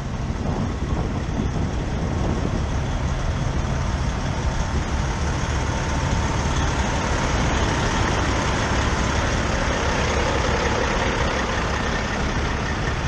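Steady low rumble of semi-truck diesel engines idling, with an even background hiss.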